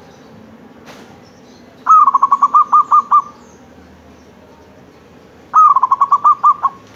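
Zebra dove (perkutut) cooing in two bouts, each a rapid string of about ten short, clipped coos on one pitch, the first note a little higher. A brief faint click comes about a second in.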